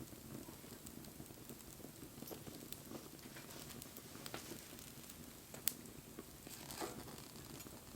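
Wood fire burning, crackling softly with scattered small pops, and one sharp, louder pop about six seconds in.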